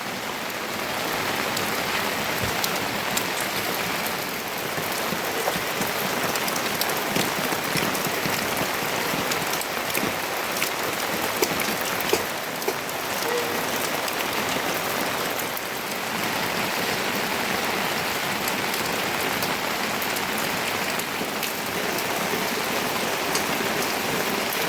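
Steady rain falling, with many individual drops tapping close by throughout.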